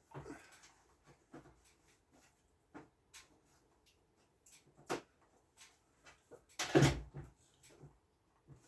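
Scattered clicks, taps and knocks of exhaust duct and fan parts being handled and worked loose, with one louder rattling clunk near the end.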